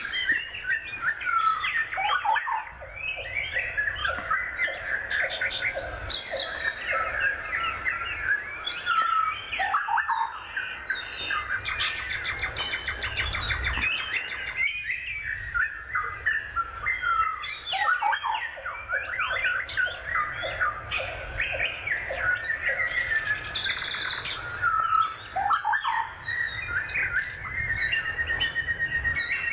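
Several birds singing and chirping at once: dense, overlapping whistles and chirps, with a fast rattling trill partway through and a quick run of repeated notes near the end.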